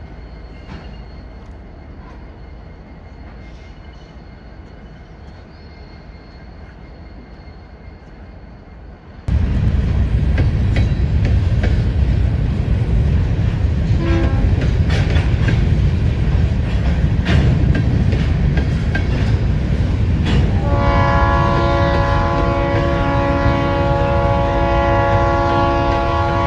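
Freight train: a low rumble, then an abrupt jump about a third of the way in to a loud, close train with wheel clicks and clatter. About three quarters of the way in the locomotive's multi-note air horn starts a long chord blast.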